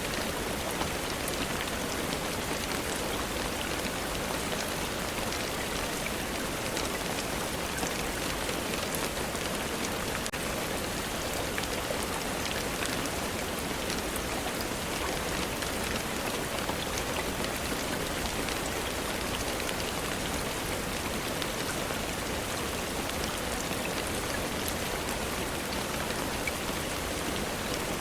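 Steady rainfall, an even hiss with scattered small ticks of drops that holds level throughout.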